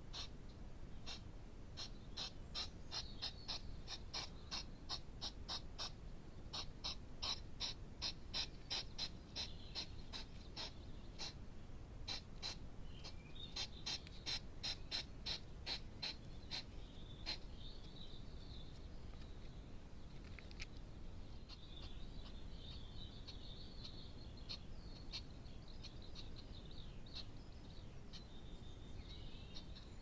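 A bird calling: a rapid series of sharp chip notes, several a second, through the first half, then a faint twittering warble.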